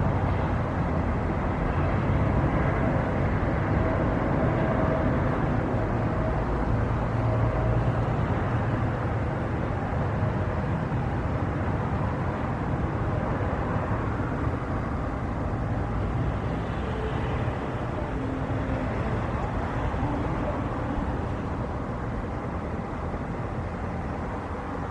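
Jet airliner engine noise: a steady rumble that slowly fades.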